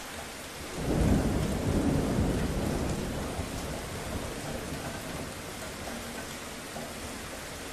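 Steady rainfall with a roll of thunder that breaks in about a second in, then rumbles away over a few seconds.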